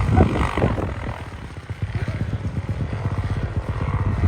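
Dirt bike engine running under throttle, a rapid low firing pulse that swells in the first second, eases off around the middle and picks up again.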